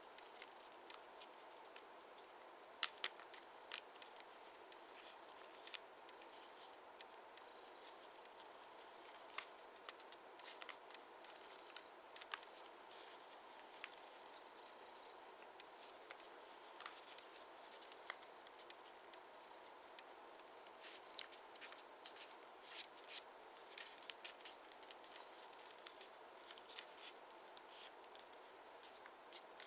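Origami paper being folded and creased by hand: scattered light, crisp ticks and rustles at irregular intervals over a faint steady hiss.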